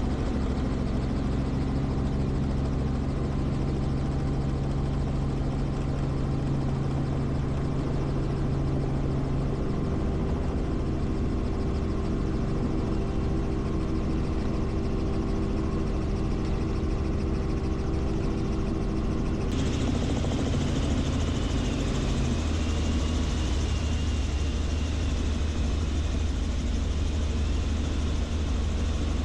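Helicopter engine and rotor running steadily, a continuous hum made of several steady tones. The tones shift about ten seconds in, and a brighter, hissier sound joins about twenty seconds in.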